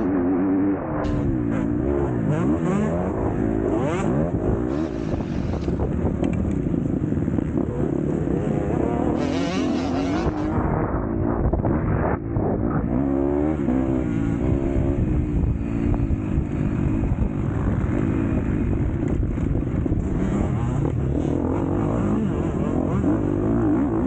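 MX2 motocross bike engine running hard under race conditions, its revs climbing and dropping again and again as the rider accelerates, shifts and backs off.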